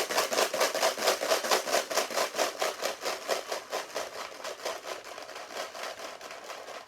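Dried pasta rattling inside a plastic margarine tub shaken quickly back and forth as a homemade rain shaker, several shakes a second. The shaking grows gentler and quieter, like rain easing off.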